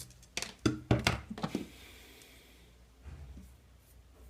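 Small sharp clicks and knocks of plastic and metal parts being handled as a hair dryer motor is taken apart and its carbon brush and spring are removed. They come in a quick cluster in the first second and a half, the loudest about a second in, then die away.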